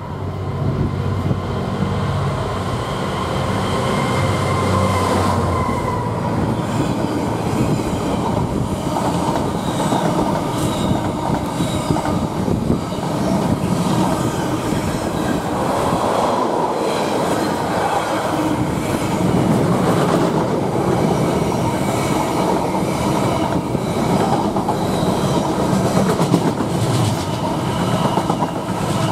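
An intermodal container freight train passing close at speed. The locomotive goes by in the first few seconds, then comes a long steady rumble with repeated clatter of the wagons' wheels over the rail joints.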